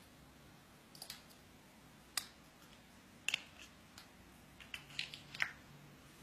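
A dozen or so irregular sharp clicks and taps, some in quick pairs, bunched around the middle and near the end.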